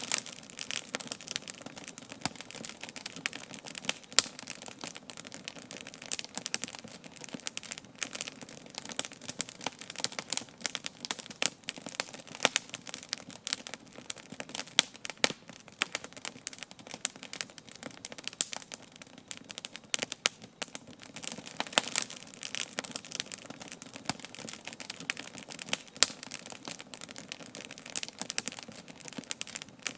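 Wood campfire burning with dense, irregular crackling and popping over a soft hiss.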